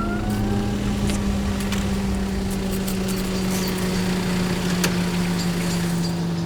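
An engine running steadily with a low hum that slowly drops in pitch, with faint ticks over it.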